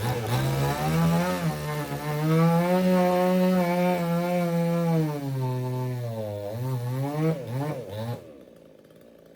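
Two-stroke chainsaw at full throttle cutting wood, its pitch wavering and sagging under load, then blipped a few times and let fall back about eight seconds in.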